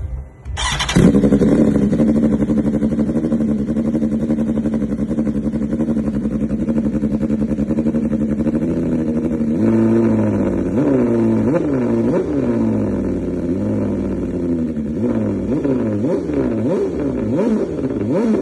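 BMW S1000RR inline-four through an aftermarket Arrow exhaust. The engine starts abruptly about a second in and idles steadily, then from about halfway it is revved in a string of quick throttle blips, about one a second, each rising and falling in pitch.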